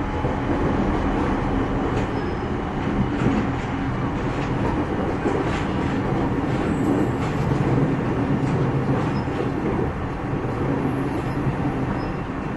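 Interior running noise of a JR 209 series electric multiple unit's motor car at speed. A steady rumble of wheels on rail with a low hum, and a few faint clicks along the way.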